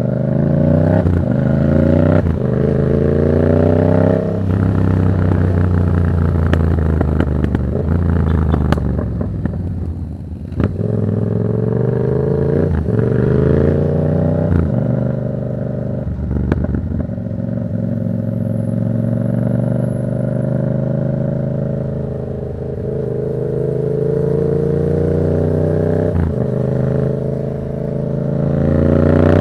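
Yamaha MT-07's 689 cc parallel-twin engine through a Black Widow exhaust with no dB killer, accelerating up through the gears with the pitch climbing in steps, then easing off and dropping in pitch about four seconds in. It pulls hard again from about eleven seconds, cruises at a steadier pitch, and picks up again near the end.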